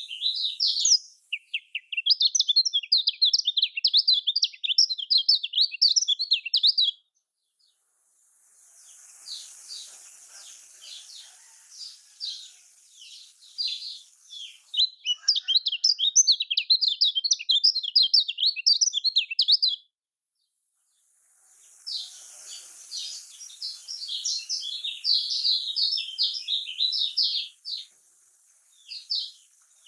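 Kecial kuning, a white-eye, singing a fast, dense chattering song of quick high notes in long bouts, broken by brief pauses twice.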